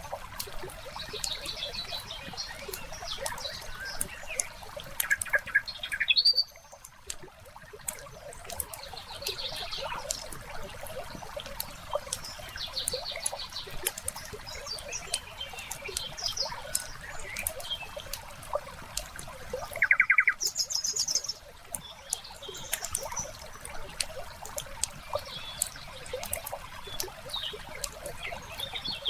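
Layered nature ambience: a wood fire crackling with frequent sharp pops, birds giving short trilled chirps every few seconds, and a soft steady trickle of water underneath. The loudest chirps come about six seconds in and again around twenty seconds.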